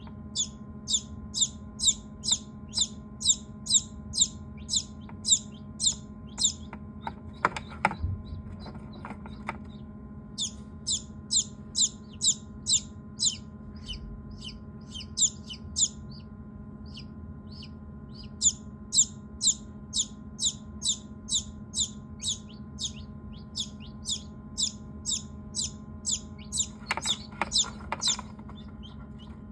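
A small bird chirping over and over, short sharp high chirps at about three a second in long runs with pauses between, over a steady low hum.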